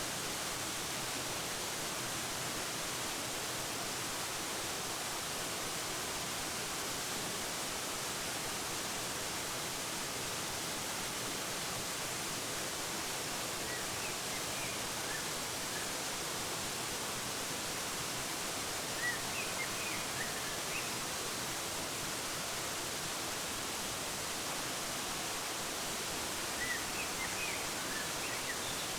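Steady rushing of a waterfall, an even hiss with no changes, with small birds chirping briefly in three short bursts: about halfway through, again a few seconds later, and near the end.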